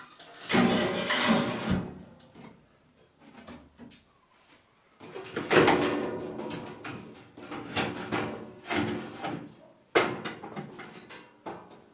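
Metal barbecue grill being handled and set in place: three bouts of scraping and rattling, then a sharp knock about ten seconds in.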